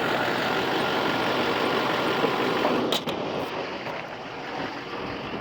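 LBZ Duramax 6.6-litre V8 turbodiesel in a 2006 Chevy 3500 idling steadily. About three seconds in there is a sharp click, and the engine sound is quieter after it.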